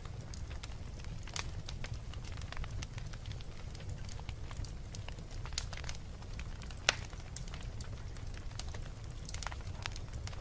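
Wood fire burning in a fireplace, crackling with irregular snaps and pops over a steady low rumble, with one sharper pop about two-thirds of the way through.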